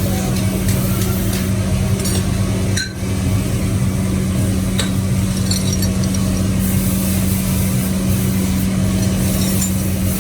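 A workshop machine running with a steady hum and low rumble, with light metallic clinks now and then. The sound dips briefly about three seconds in.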